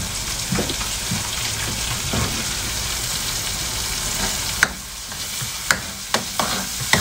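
Food sizzling in a metal wok, a steady hiss, while a metal spatula stirs it; from a little past halfway the spatula scrapes and clinks against the wok several times.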